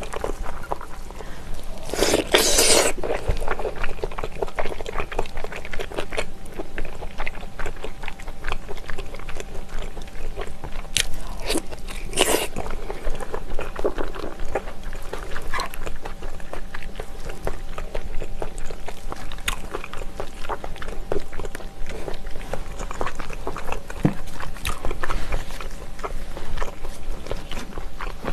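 Close-miked wet chewing, lip smacking and biting of spicy braised ox knee (dogani) and its soft, gelatinous tendon. Dense irregular clicks run throughout, with louder bites about two seconds in and again around twelve seconds.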